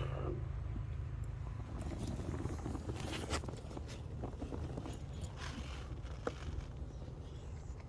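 A dog moving about after a ball: light scuffs and scattered clicks, a few sharper ones around three and six seconds in, over a low steady rumble.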